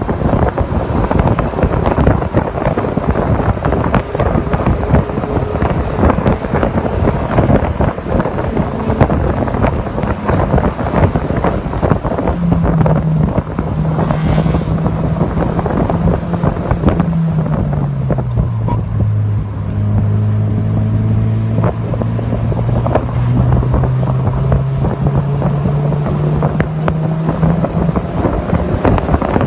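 Mazda MX-5 Miata (NC) four-cylinder engine running hard at speed, with heavy wind buffeting the microphone. The engine note drops a little past halfway, then climbs again near the end.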